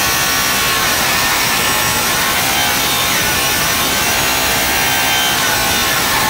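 Drill Master power saw running a metal-cutting blade installed backwards, its teeth skidding and burning their way through half-inch steel plate instead of cutting. A continuous loud grinding screech with a steady high whine. The backward rotation is wrecking most of the teeth.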